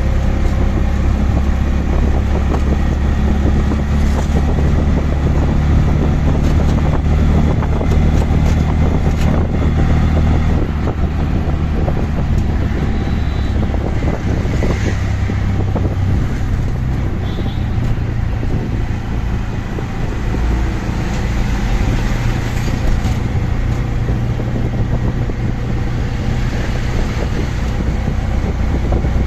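Three-wheeled CNG auto-rickshaw engine running on the move, heard from the passenger seat, with road and traffic noise around it. The engine note drops and it runs a little quieter about a third of the way through.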